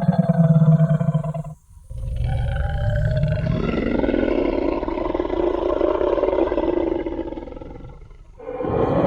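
Designed Tyrannosaurus rex roar sound effect: one roar ends about a second and a half in, then after a brief pause a long, deep roar of about six seconds that fades away, and a new roar starts near the end.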